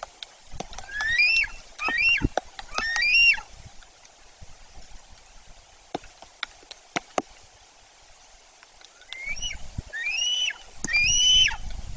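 White-tailed eagle giving short, high yelping calls, each rising then falling in pitch. There are three in quick succession, a pause of several seconds, then three more near the end. Scattered sharp ticks fall in between.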